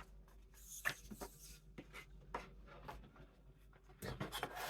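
Retractable craft knife cutting through poster board on a cutting mat, in short, irregular scratching strokes with a few sharp clicks, busier near the end.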